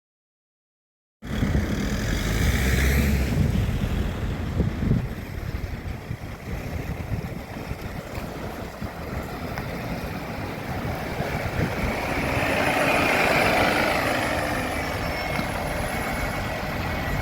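Road traffic: vehicle engines running and tyre noise, with one vehicle passing louder about two-thirds of the way through. The sound starts abruptly about a second in.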